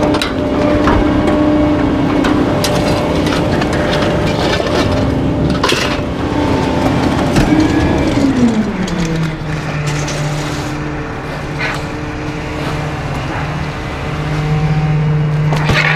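Garbage truck engine running fast to drive the hydraulic packer, with scattered cracks and snaps of bulky waste being crushed; about eight seconds in the engine winds down to a lower, steady speed as the packing cycle eases off.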